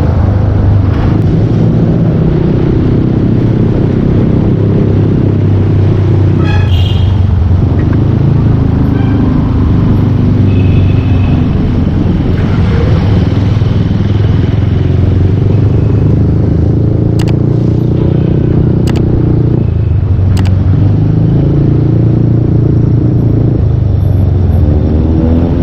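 Yamaha Aerox 155 scooter's single-cylinder engine breathing through a full Yoshimura exhaust while riding, its note rising and falling with the throttle. A few sharp clicks sound between about 17 and 21 seconds in.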